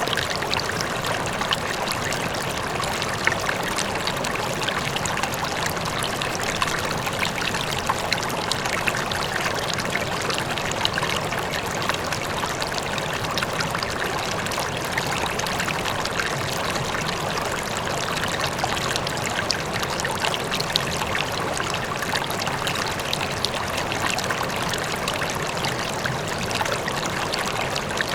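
River flowing: a steady rush of water flecked with small splashes and gurgles, with a faint waterfall in the distance.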